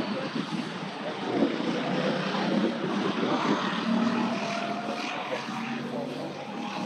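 A steady engine drone over a wash of outdoor noise, with faint pitched tones that drift slowly in pitch.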